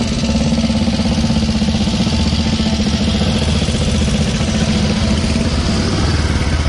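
Motorcycle engine running steadily with a rapid, even beat.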